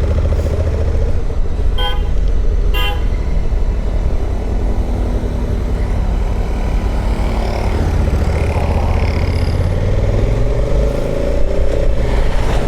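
Motorcycle riding noise, a steady low engine and wind rumble from a Honda CRF1100 Africa Twin on the road, with two short horn toots about two and three seconds in.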